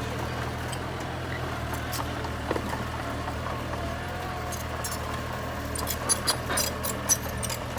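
Komatsu mini bulldozer's diesel engine running with a steady low drone, with a few sharp metallic clinks in the last two seconds.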